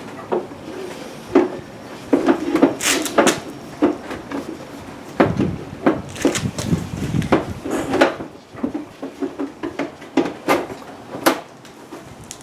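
Scattered knocks, clicks and scrapes of tools and parts being handled during hands-on assembly work, with a longer stretch of scraping and rustling about halfway through.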